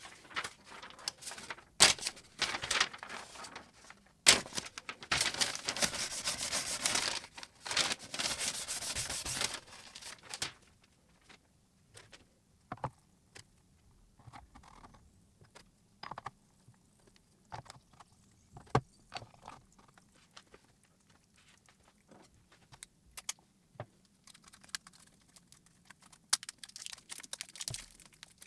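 Dry scraping and rubbing strokes for the first ten seconds or so, then scattered light clicks and taps, with more scraping near the end.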